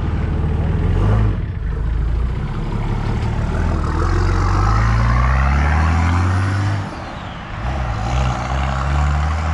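Nissan TD42T turbo-diesel straight-six, with a freshly rebuilt bottom end, accelerating through the gears. The engine note climbs, drops back at a gear change about a second in, climbs steadily again, and drops at another change about seven seconds in.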